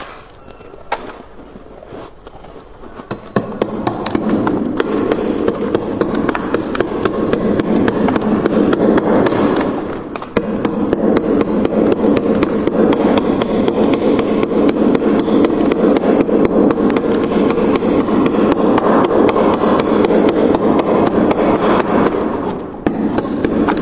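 Frost being scraped and chipped off the inside of a freezer in rapid, continuous strokes. A few scattered scrapes come first, then the strokes run densely, pausing briefly twice.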